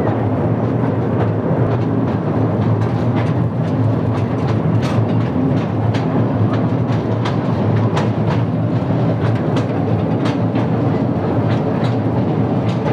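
A small museum joy train running along its track, heard from aboard: a steady low rumbling drone with irregular sharp clicks of the wheels over the rail joints. It sounds just like an old-time train running.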